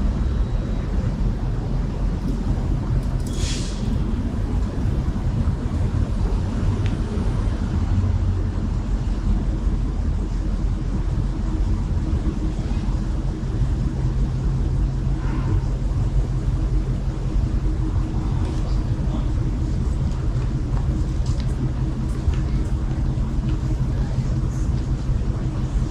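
City street traffic: a steady low rumble of passing vehicles, with a low engine hum joining about halfway through.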